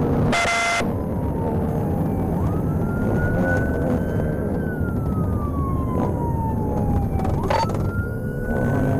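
Police cruiser siren on a slow wail, rising quickly in pitch then falling slowly, over steady engine and road rumble. A short, loud tone with several pitches sounds near the start.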